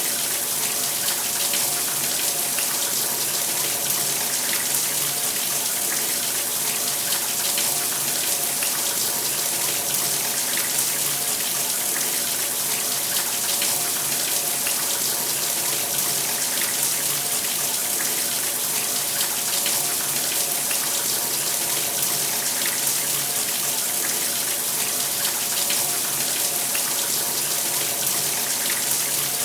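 Shower running: water spraying and splashing steadily as an even hiss, with no breaks or changes.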